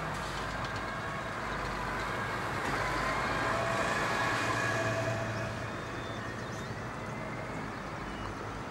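Several farm tractors and a forage harvester driving off together, engines running steadily, a little louder around the middle before easing back.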